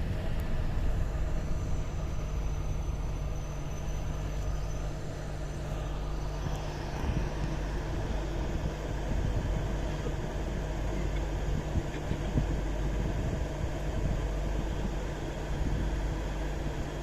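Moving train running with a steady low rumble and a faint high whine for a few seconds early on.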